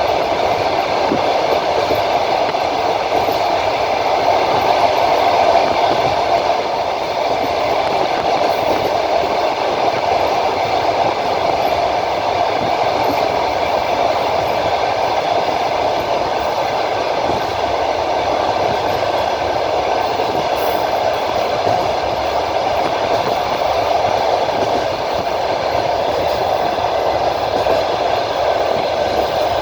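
Passenger train in motion, heard from a carriage window: steady rolling noise of steel wheels running on the rails.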